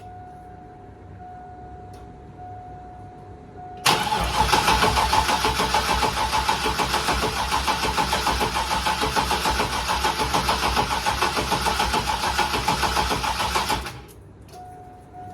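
Turbocharged LS V8 with a BTR turbo cam on its first start: the engine sound begins abruptly about four seconds in, goes with an even rhythmic pulse for about ten seconds, then cuts off suddenly.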